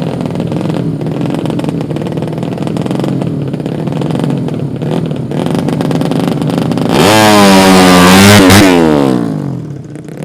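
Tuned drag-race motorcycles running in the background, then about seven seconds in one accelerates hard past, its engine note climbing and then dropping sharply as it goes by, fading away near the end.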